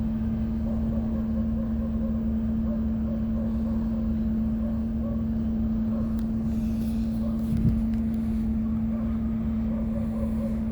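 Electric trolling motor running steadily with a constant-pitched hum, pushing a kayak, over a rumble of water and wind. A single knock comes about two-thirds of the way through.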